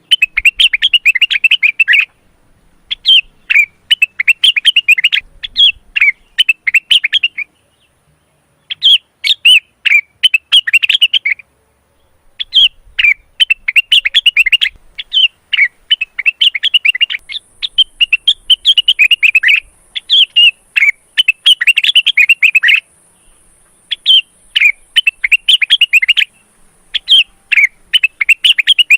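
Male blue-winged leafbird (cucak wilis) singing in breeding condition: rapid chattering bursts of song, each phrase a second or two long, with short pauses between them.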